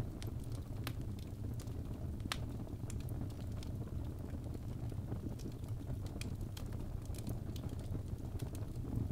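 Birch logs burning in a fireplace: irregular sharp crackles and pops, several a second, over a steady low rumble of the flames.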